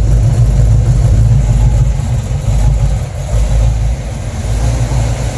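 Chevrolet Nova's engine idling through a new Pypes 3-inch exhaust, a deep, uneven rumble that eases slightly about three seconds in. The idle is a little choppy, which the owner puts down to an idle mixture that still needs adjusting.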